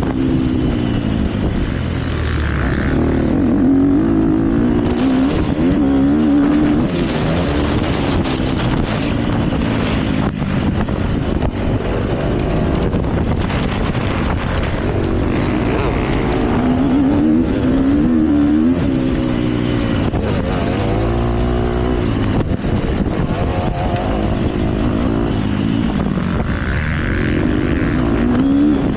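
KTM motocross bike engine revving up and down repeatedly as it is ridden hard, its pitch rising and falling with throttle and gear changes, heard close up from an action camera mounted on the bike or rider.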